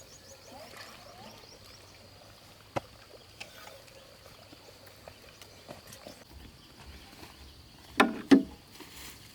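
Two sharp knocks in quick succession near the end, about a third of a second apart, after a few faint scattered clicks over a quiet background.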